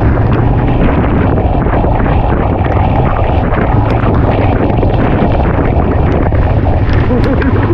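Steady, loud roar of Magod Falls, the Bedthi River dropping into a rocky ravine at full monsoon flow.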